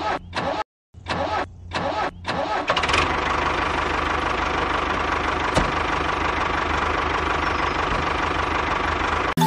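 Small engine of a homemade mini tractor starting in a few short bursts, then running steadily at idle until it cuts off abruptly near the end.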